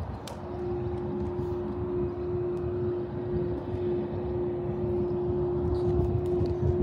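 Diesel locomotive running at idle: a steady low rumble with a constant hum held on one pitch.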